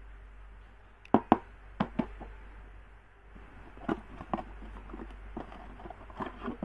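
A series of sharp clicks and knocks, the two loudest a little over a second in, with more scattered through the rest.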